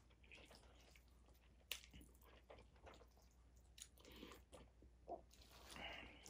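Faint chewing of a mouthful of orange chicken and rice, with a few soft clicks scattered through.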